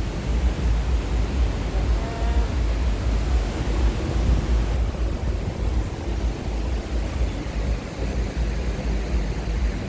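Wind buffeting the microphone in a steady, gusty rumble, with the rush of sea surf underneath.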